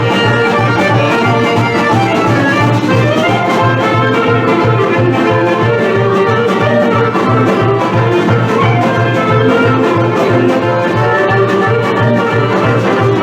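Instrumental Vlach folk dance music, a medley of tunes with a melody over a steady, even bass beat.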